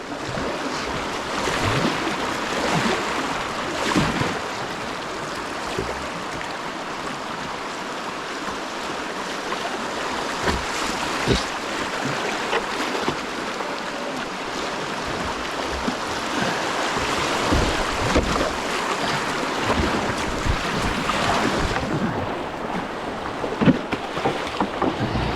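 Whitewater river rushing steadily, with scattered short splashes.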